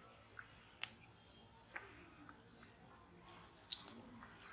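Near silence, with a few faint short clicks and chirps scattered through it.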